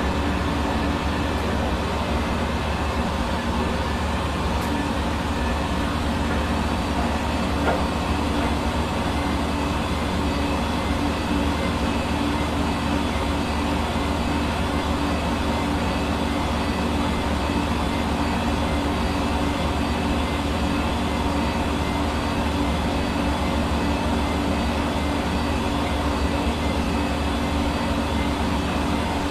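Hair dryer running steadily: a constant motor hum under the even rush of blown air.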